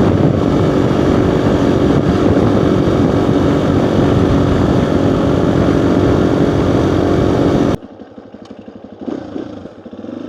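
Dual-sport motorcycle engine running under way with wind rushing over a helmet-mounted mic that has no wind muff: loud and steady. About three quarters of the way through it cuts off abruptly to much quieter sound.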